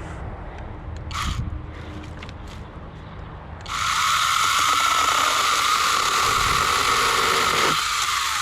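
Cordless chainsaw running on a Milwaukee battery: after a few seconds of light handling noise and a click, it starts about halfway in with a steady high whine and cuts easily through wood.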